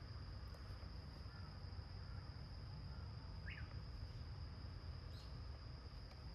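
Quiet woodland ambience: a steady high insect drone over a low wind rumble, with a few faint short bird chirps in the middle.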